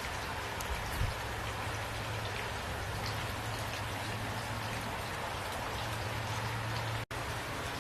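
Steady rain falling, with small individual drop hits over a low, even hum. The sound drops out for an instant about seven seconds in.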